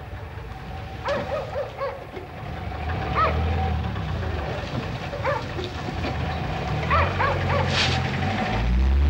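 Citroën DS four-cylinder engine running as the car pulls out of a garage, rising in pitch near the end as it speeds up. Several short animal calls sound over it at intervals.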